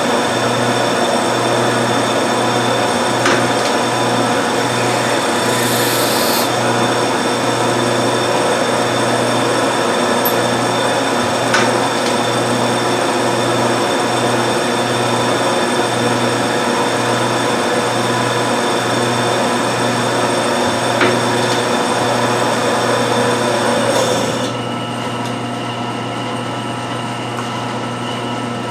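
A 1952 Wade 7 turret lathe running under power: a steady mechanical hum with several constant tones and a few single sharp clicks. About 24 seconds in, the higher hiss drops away and the running sound gets quieter.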